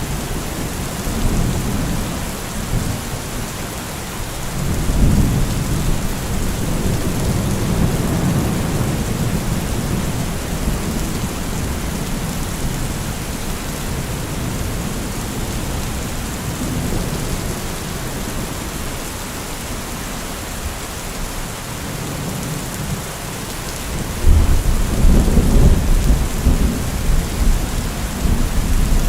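Steady heavy rain with rolling thunder: deep rumbles swell about five seconds in and again, louder, near the end.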